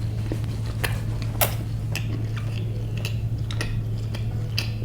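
Close-miked chewing of a fried bread pakora: scattered crisp clicks and small crunches over a steady low hum.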